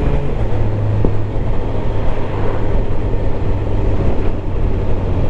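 Suzuki GSX-R750 inline-four engine running on the move; its note drops about half a second in and then holds steady at lower revs.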